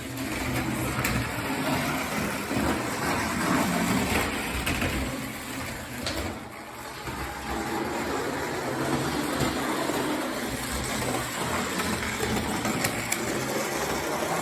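A Lionel toy trolley's small electric motor whirring and its wheels rolling on O-27 three-rail track, swelling and fading as it runs around the loops, with a dip about six seconds in.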